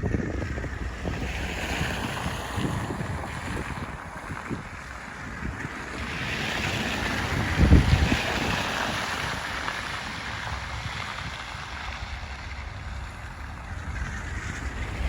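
Wind of a snowstorm buffeting the microphone, a rough rushing noise with low rumble, gusting loudest a little under eight seconds in.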